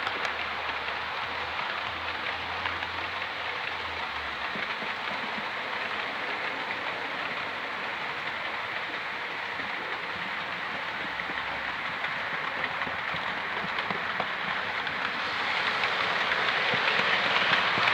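Model locomotive running along a model railway track: a steady whirring, rushing rattle of small wheels and motor on the rails, growing louder near the end as the train comes closer.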